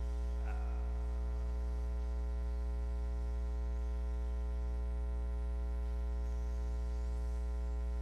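Steady electrical mains hum with a buzzing stack of overtones. A brief faint pitched sound comes about half a second in.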